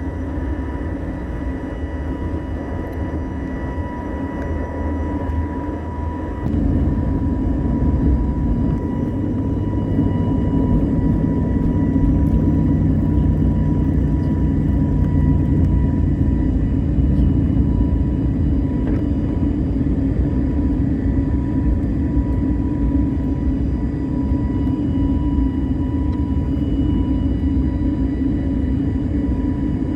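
Airbus airliner's jet engines and low rumble heard inside the cabin. It is steady, then gets clearly louder about six seconds in and holds there.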